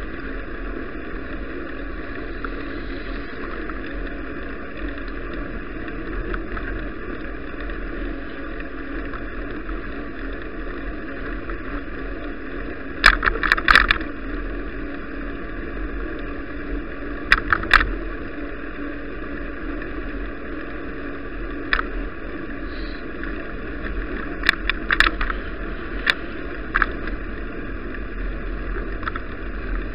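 Steady rushing wind and rolling noise of a bicycle ride, with clusters of sharp clicks and rattles about halfway through and several more in the last third, as the bike jolts over bumps.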